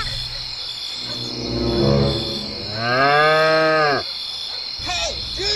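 A cow mooing: one long, low call that rises and then falls, lasting from about a second in to about four seconds in. A steady, high insect chirring runs behind it.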